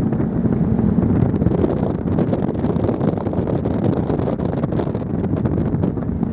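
Wind buffeting the microphone on a ferry crossing, with flickering gusts over a steady low rumble from the ship.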